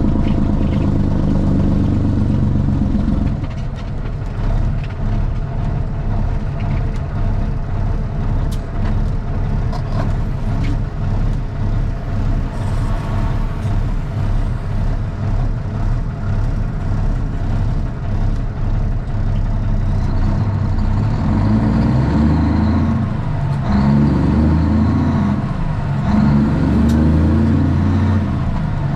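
Straight-piped Cummins ISX diesel in a Kenworth T800 semi truck running loud on the road. It eases off about three seconds in, then pulls hard again near the end with two brief dips as the gears change.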